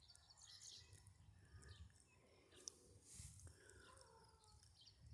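Near silence, with faint, scattered bird chirps and short calls over a low, steady background haze.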